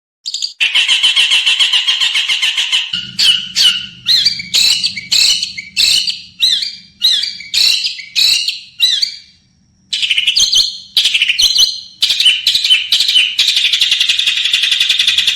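Small wild songbird singing fast and harsh: rapid chattering trills, then a run of sharp, separate notes about two a second. After a brief break the fast trill resumes.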